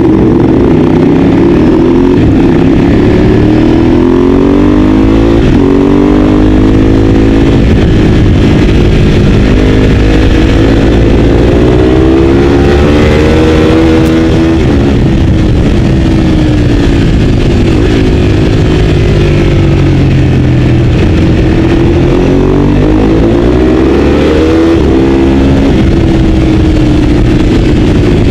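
Ducati 848's L-twin engine at racing speed, heard from on board, its pitch repeatedly climbing under hard acceleration and dropping away as the rider slows for corners.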